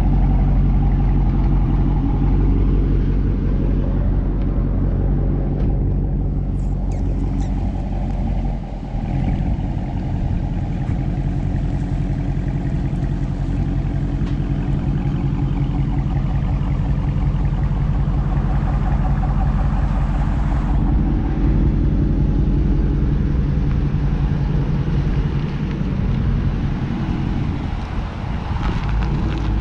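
Dodge Charger R/T's 5.7-litre Hemi V8 idling steadily with its mid-mufflers deleted, giving a deep exhaust rumble.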